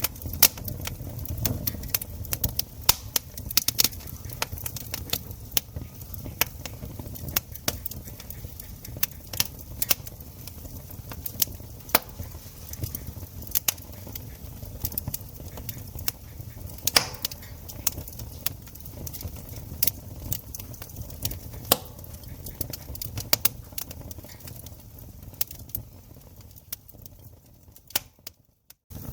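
Wood campfire crackling, with irregular sharp pops and snaps of burning wood over a low rumble of the flames. The sound drops out briefly just before the end, then resumes.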